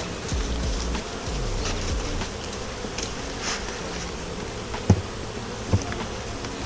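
Honeybees buzzing steadily around an open hive, with two short sharp knocks a little under a second apart near the middle.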